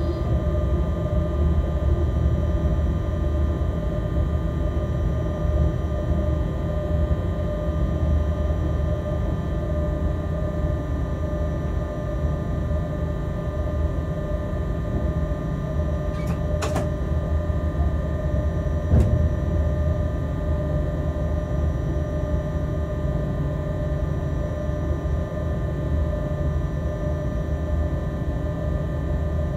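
Freight locomotive cab while the train is running: a steady low rumble with a hum of several constant tones. Two short sharp clicks come about 17 and 19 seconds in.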